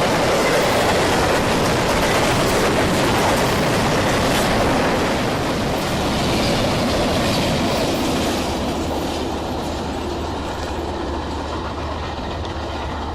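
Freight train of empty flatcars rolling past close by, with steel wheels running over the rails in a loud, continuous rumble. The sound eases off from about eight seconds in as the train moves on.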